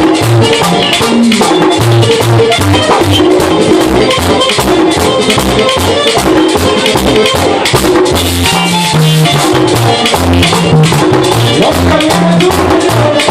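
Merengue típico band playing at a fast tempo: a metal güira scraping steadily, tambora drum strokes and a bass line under the melody.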